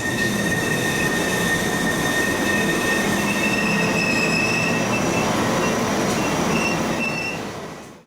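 Passenger train running on the rails with steady high-pitched wheel squeal over the rumble of the wheels, fading out near the end.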